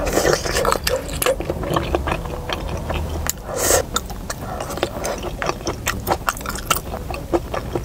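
Close-miked chewing of a hot mouthful of stir-fry: a run of quick wet clicks and smacks from the mouth, with chopsticks working in a plastic takeaway bowl, over a low steady rumble.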